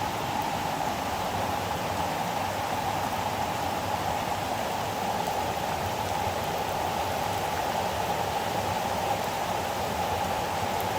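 Waterfall rushing steadily, an even unbroken wash of falling water.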